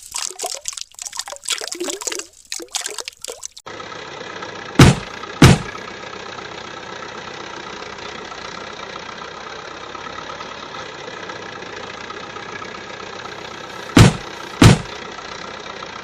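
Irregular clattering for the first few seconds, then a steady engine idling sound. Two pairs of short, very loud blasts cut in over it, about five seconds in and again near the end.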